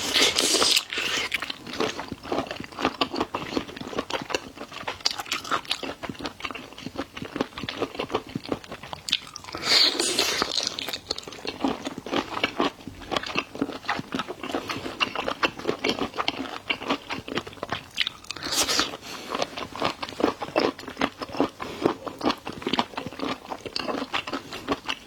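Close-miked eating: continuous wet chewing with crunchy bites, louder bites coming just after the start, about ten seconds in and again near two-thirds through.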